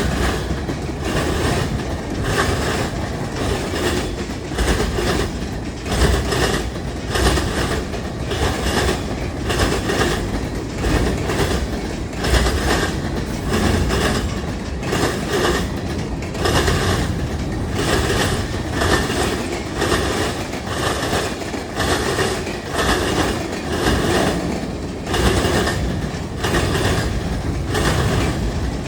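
Freight train cars rolling past at speed, steel wheels clicking over the rail joints in a steady, even rhythm over a continuous rumble.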